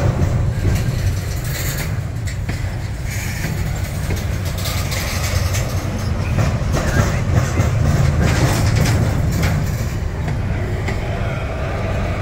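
Union Pacific double-stack intermodal train rolling slowly past close by: a steady low rumble of wheels on the rails, with scattered clicks and clanks from the cars.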